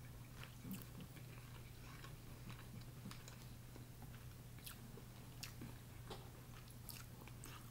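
Faint chewing of seafood with scattered small clicks and crackles as shrimp and snow crab legs are handled.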